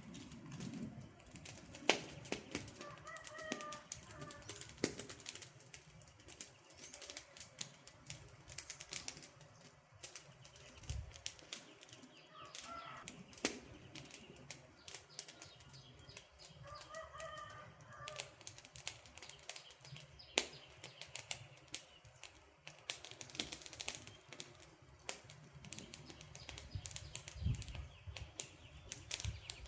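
Campfire crackling, with many irregular sharp snaps and pops of burning wood. A few short bird calls come through over it, three times.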